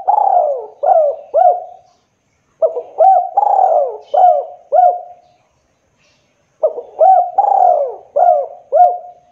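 A derkuku dove cooing: three phrases of about five quick hooked coo notes each, with short pauses between phrases.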